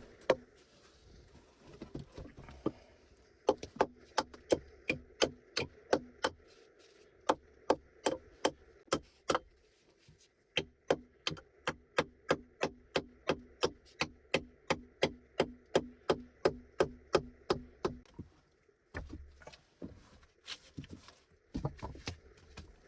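Rapid, regular strikes of a tool on wood, about two to three a second, in several runs with short pauses between them, ending in a few scattered knocks.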